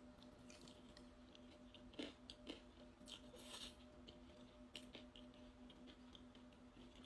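Faint close-up chewing, with soft crunches and small mouth clicks scattered through, a little louder about two seconds in and again around three and a half seconds in.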